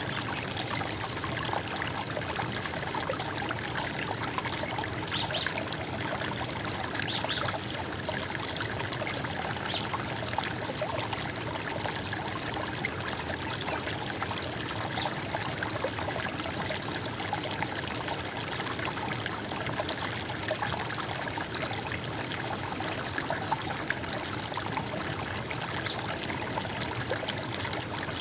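Running water trickling and splashing steadily, as of a small stream or cascade.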